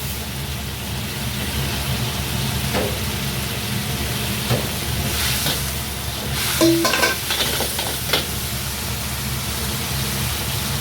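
Food sizzling and frying in a pan as it is stirred, with scattered short metal clinks and a steady low kitchen rumble underneath.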